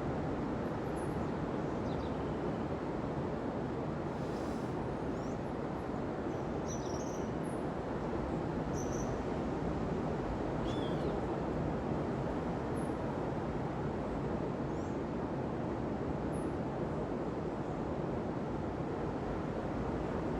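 Steady rushing wash of ocean surf on a beach, with scattered short, high bird chirps over it.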